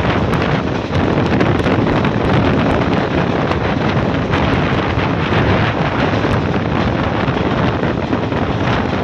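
Steady rush of wind buffeting the microphone at the window of a fast-moving passenger train, over the running noise of its wheels on the track.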